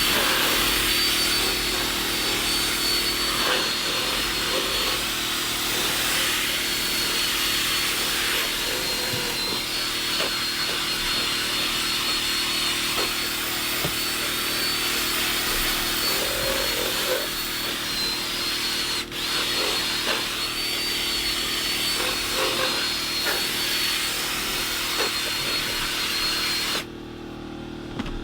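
Cordless drill spinning a scrub brush against cloth upholstery or carpet: a steady high motor whine over a scrubbing hiss. The trigger lets off briefly about two-thirds of the way through, and the drill stops a second before the end.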